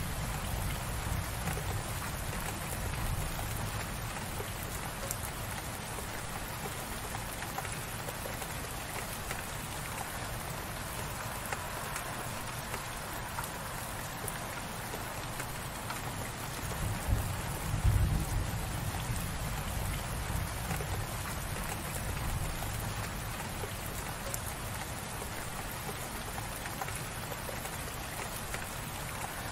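Light rain falling steadily, an even hiss of drops on surfaces. A brief low rumble swells up about two-thirds of the way through.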